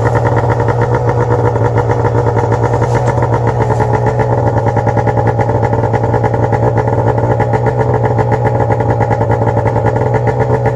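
1997 Arctic Cat EXT 580 EFI snowmobile's two-stroke twin engine running steadily, with an even pulsing beat and no revving.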